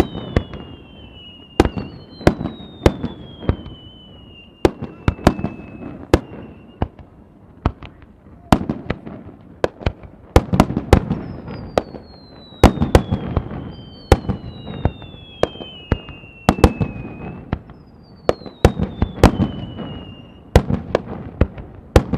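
Fireworks going off: an irregular run of sharp bangs and crackles, some several a second, with long whistles that fall in pitch recurring every few seconds.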